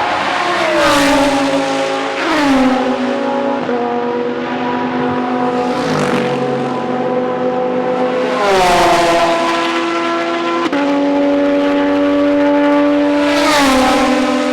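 GT race cars passing one after another at speed. Each engine note drops in pitch as the car goes by, about five pass-bys in all, with other cars' engines running steadily further off in between.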